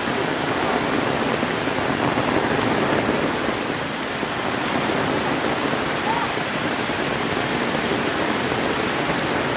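Heavy tropical rain pouring down steadily, an even dense hiss with no thunder.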